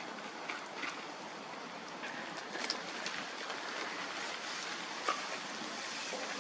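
Bonfire burning with a steady rushing hiss and occasional sharp crackles and pops, the loudest about five seconds in.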